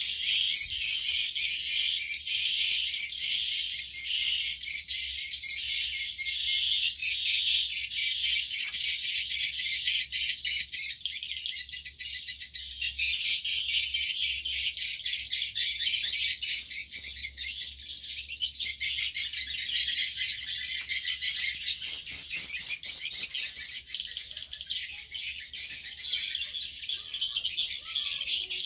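Swiftlets twittering inside a swiftlet house: a dense, unbroken chorus of high-pitched chirps.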